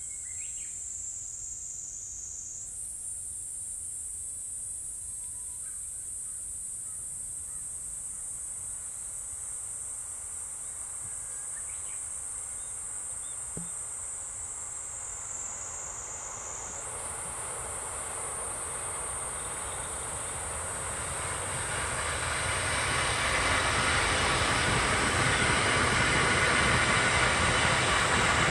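High-pitched insect chirring over a quiet rural background. From about two-thirds of the way in, the rolling noise of a JR East E531 series electric commuter train builds as it approaches and passes at speed, becoming the loudest sound near the end.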